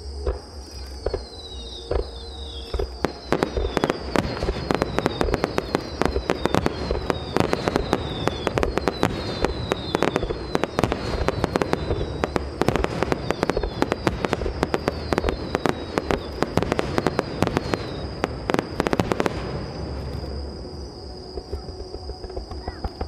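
Fireworks: a dense barrage of bangs and crackling from about three seconds in, with many short falling whistles, stopping abruptly a few seconds before the end.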